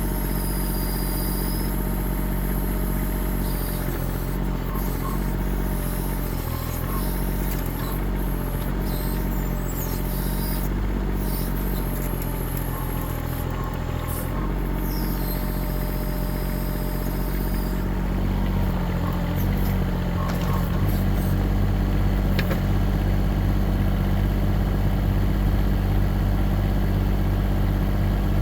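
Mini excavator's Kubota diesel engine running steadily, growing louder about two-thirds of the way through, with a few faint high squeaks over it.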